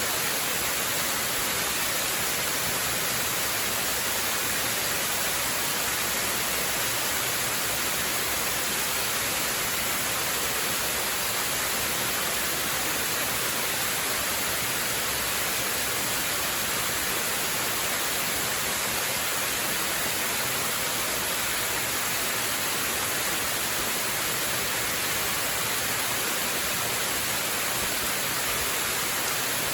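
Waterfall: water pouring steadily into a pool, an unbroken even hiss with no changes.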